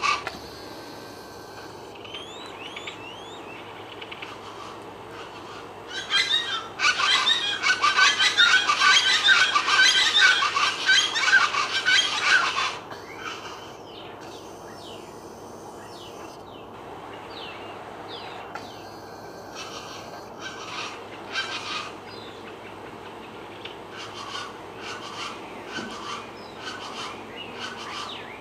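Wild birds calling: scattered chirps and short whistled glides, with a loud, dense burst of many overlapping chattering calls from about six to thirteen seconds in.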